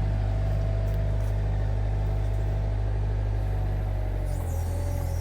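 Excavator's diesel engine running steadily at idle, with a faint whine above the engine note; the note shifts slightly about four seconds in.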